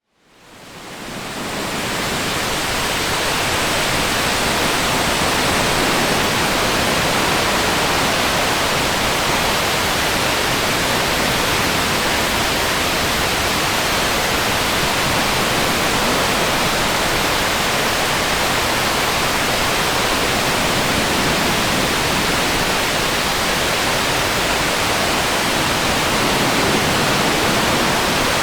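Waterfall: a steady, unbroken rush of falling water, fading in over the first couple of seconds.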